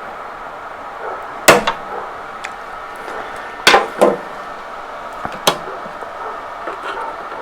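Four sharp, irregularly spaced knocks of a tool striking metal as a seized wheel part on a Toro commercial mower is worked loose.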